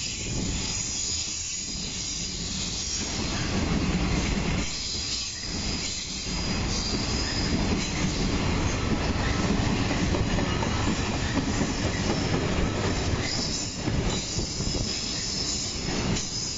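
Loaded JR Freight container wagons rolling past on curved track, with a thin high wheel squeal over the steady rolling noise.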